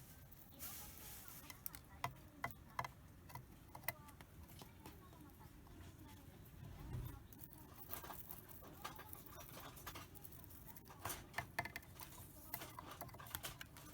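Cockatiel pecking at and husking seeds: faint, irregular small clicks and crackles.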